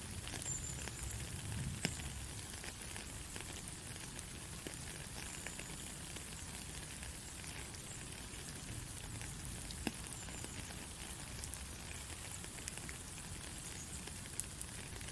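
Steady heavy rain hissing, with a low rumble underneath and a few sharp louder drop hits, about three in all.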